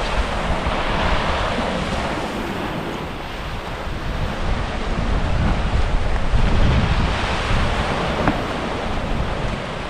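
Wind buffeting the microphone over a steady wash of surf, swelling a little in loudness midway.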